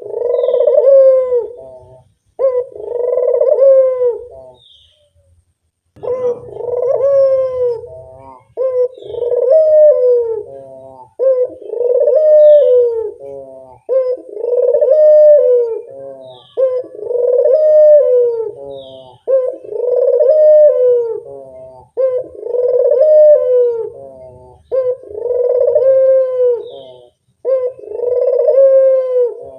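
Puter dove (domestic Barbary dove) cooing: the same low rolling coo phrase repeated about every two and a half seconds, with a brief pause about five seconds in.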